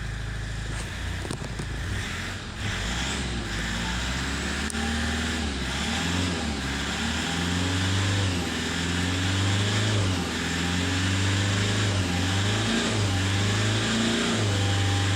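Toyota RAV4's 2.2 L four-cylinder turbo-diesel engine running, its revs rising and falling again and again from a few seconds in.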